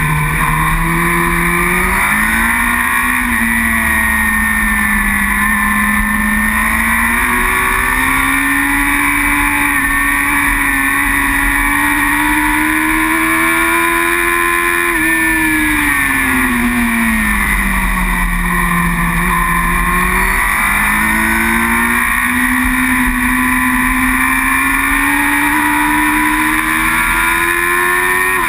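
Racing superbike engine on track, heard close up: its pitch climbs and falls with speed, drops low about halfway through as the bike slows, then climbs steadily again as it accelerates. A steady low rush of wind runs underneath.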